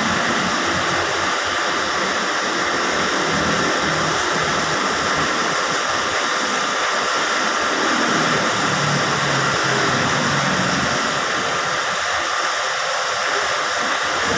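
Steady, loud rushing hiss with no rhythm or pitch, holding even throughout.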